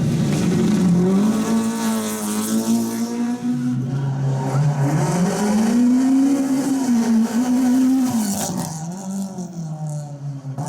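Rally car engine at full effort: it holds a steady note, drops sharply in pitch about four seconds in, climbs again to a higher note, then falls and fades near the end.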